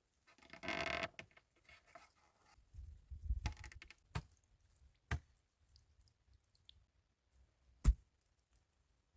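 Handling noises: a brief scraping rustle, then low thuds, then three sharp knocks spaced a second or more apart, the last the loudest.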